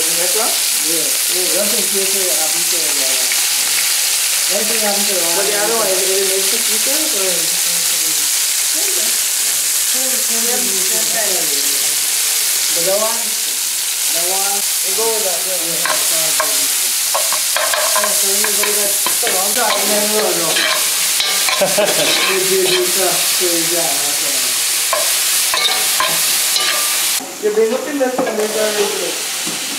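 Sliced onions and green onions sizzling in hot oil in an aluminium pot, a steady frying hiss. Near the end the sizzle briefly drops, then a few sharp knocks as cubed pumpkin goes into the pot.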